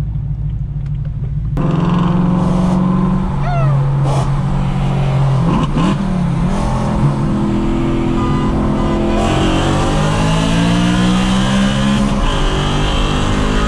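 Straight-piped BMW E92 M3's V8 heard from inside the cabin under hard acceleration. It gets louder about a second and a half in, then the engine note climbs in pitch and drops at a gear change near the end.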